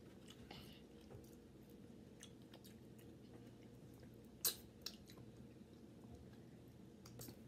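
Faint chewing and mouth sounds of people eating ice cream and strawberries, with scattered small clicks and one sharp click a little past halfway.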